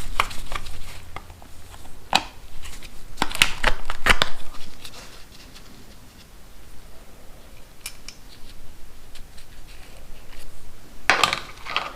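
Irregular sharp clicks and knocks of hand tools and metal parts being handled as a cover is taken off a motorcycle engine. There are several in the first few seconds, few and faint in the middle, and a cluster near the end.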